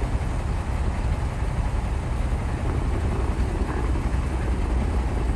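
A bulldozer's diesel engine running steadily with a deep rumble.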